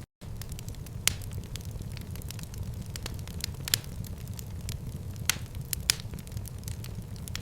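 Fireplace fire burning with a steady low rumble and scattered sharp pops and crackles, a handful of them louder than the rest. The sound cuts out completely for a split second right at the start.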